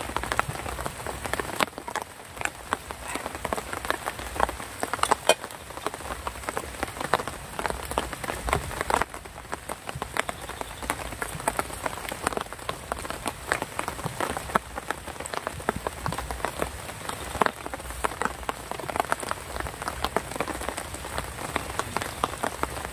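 Rain pattering steadily on a surface: a dense, irregular run of drop ticks.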